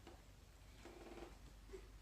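Near silence: quiet indoor room tone, with one faint, short pitched sound about a second in.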